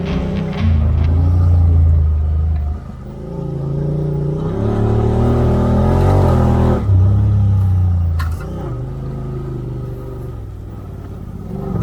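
Side-by-side UTV engine running under load and revving as it drives, its pitch stepping up and down.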